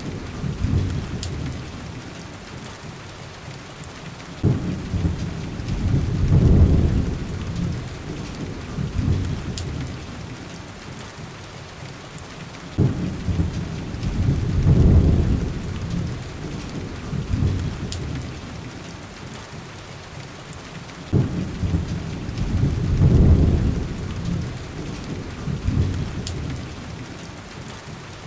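Steady heavy rain with rolling thunder: three low rumbles, each starting suddenly, building over a couple of seconds and fading, roughly every eight seconds. A few faint sharp ticks sound over the rain.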